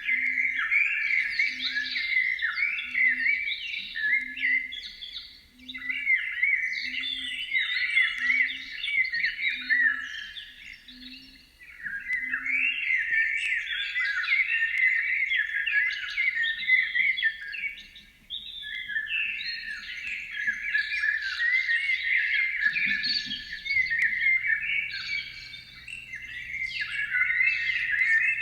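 Songbird singing a long, continuous warbling song in phrases of several seconds with brief pauses between them. A faint low pulse comes about twice a second during the first ten seconds, and a low hum starts near the end.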